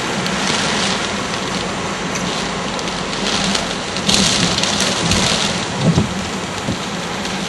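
Typhoon wind and driving rain: a dense, steady rush with louder gusts about four and six seconds in.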